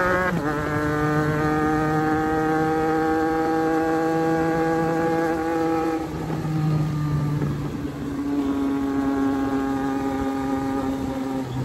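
Sport motorcycle engine running at a steady cruise, its note sagging slowly. It falls away about six seconds in and picks up again a couple of seconds later at a slightly lower pitch, with wind buffeting the microphone.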